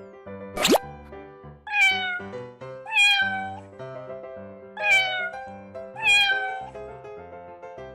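A cat meowing four times, each meow sliding down in pitch, over light background music. A quick rising swoop comes just before the first meow.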